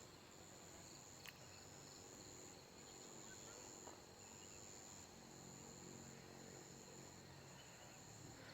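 Near silence with faint, high-pitched insects chirping in a steady band that swells and eases every second or so, and a single faint click about a second in.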